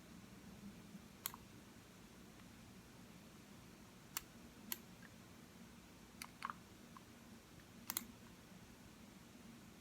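Computer mouse buttons clicking: sharp single clicks at irregular intervals, with a quick double click about eight seconds in, over a faint steady room hum.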